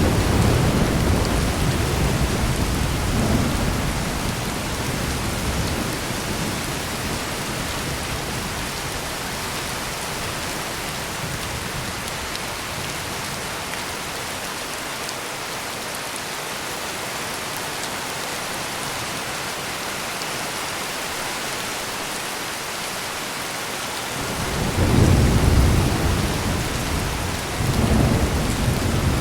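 Heavy rain pouring steadily, with thunder rumbling. The rumble at the start fades over the first few seconds, leaving only the rain. A fresh roll of thunder comes in about 24 seconds in and swells again near the end.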